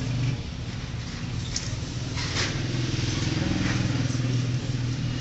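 Air compressor running with a steady low hum, with a few short clicks over it.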